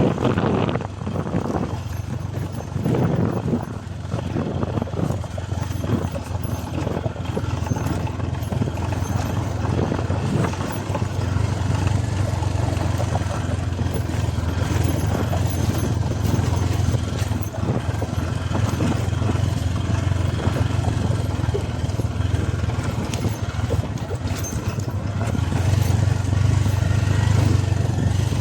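Motorcycle engine running steadily while riding, a little louder near the end.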